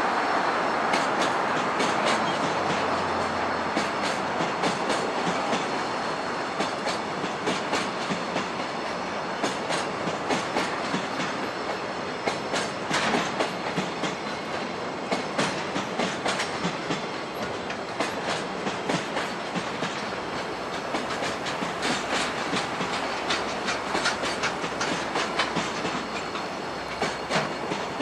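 Freight train's container wagons rolling past, wheels clacking over rail joints in an uneven run of clicks over a steady rumble that slowly fades.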